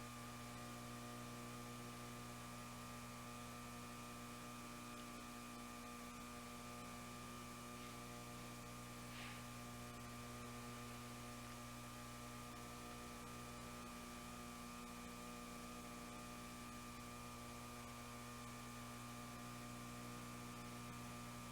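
Steady electrical mains hum: a constant buzz made of several steady tones that does not change, with one faint brief tick about nine seconds in.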